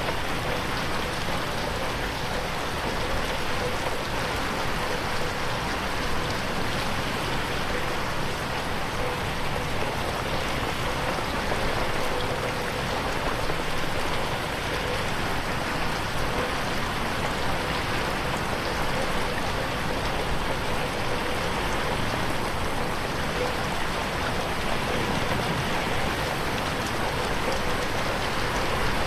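Steady rain falling on a window, an even hiss of drops with no thunder.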